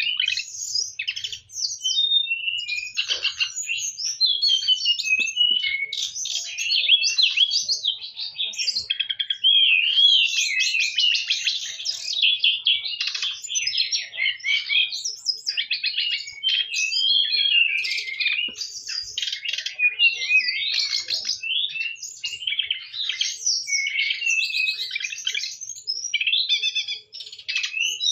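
A songbird singing without pause: a fast, varied run of high chirps, whistles and trills.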